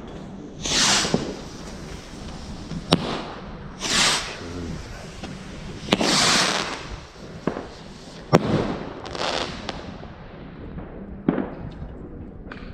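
New Year's Eve fireworks going off: four hissing bursts a few seconds apart, with sharp single bangs in between.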